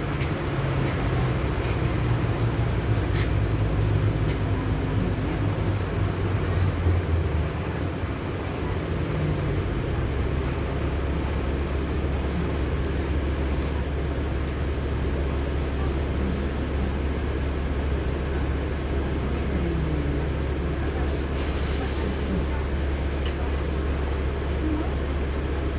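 Cabin noise of a LiAZ-6213.65 articulated city bus under way: the engine's low note shifts in pitch for the first several seconds, then settles into a steady low drone from about ten seconds in.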